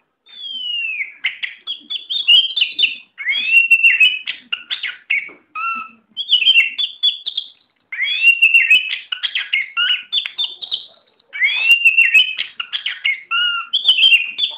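Oriental magpie-robin (kacer) singing: varied whistled phrases of sweeping, curved notes mixed with rapid chattering notes, each phrase a few seconds long with short pauses between.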